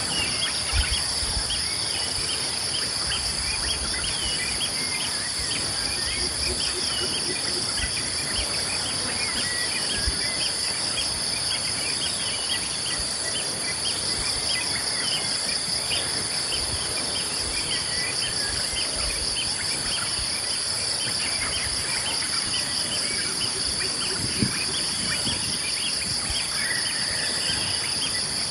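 A steady chorus of insects making a continuous high buzz, with many small birds chirping throughout.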